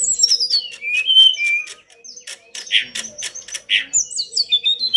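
Tledekan gunung (sulingan gunung) songbird singing a fast, varied song. Rapid clicking notes mix with high whistled phrases that slide down in pitch. Two louder harsh notes come in the middle, and the high whistles start up again near the end.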